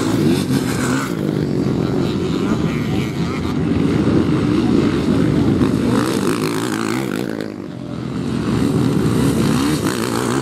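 Motocross bikes' engines revving hard as they race, the pitch rising and falling with the throttle. The sound dips briefly about three-quarters of the way through, then builds again.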